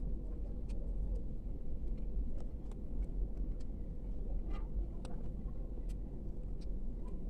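Steady low rumble with light, irregular clicks and taps scattered through it, from small packaging and miniature books being handled during unboxing.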